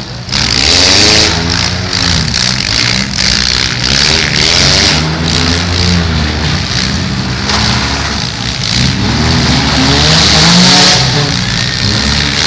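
Engines of several compact demolition-derby cars running and revving, their pitch rising and falling again and again as the cars manoeuvre.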